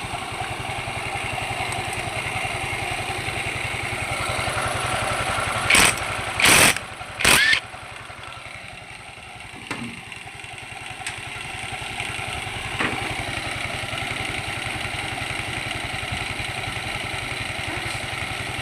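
Yamaha Mio i 125 scooter's single-cylinder four-stroke engine running at idle, freshly rebuilt. About six seconds in come three short, loud bursts of noise, after which the engine runs a little quieter for a couple of seconds.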